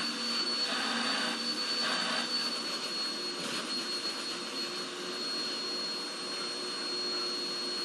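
Vacuum cleaner motor running steadily, a constant high-pitched whine over its airflow noise.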